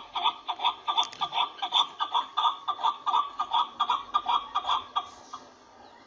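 Chukar partridge calling a rapid, even run of clucking notes, about four or five a second, that stops about five seconds in.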